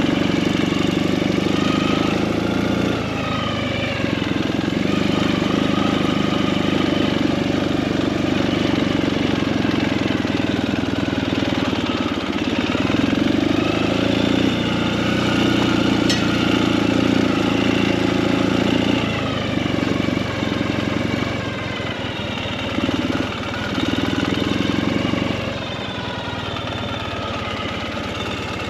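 Motorcycle engine running at low road speed, its pitch and level shifting several times as the throttle is eased on and off.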